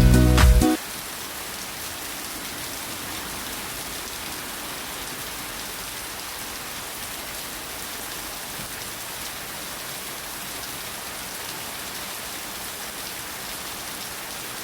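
Steady rain falling, an even hiss with no let-up. Music ends abruptly under a second in.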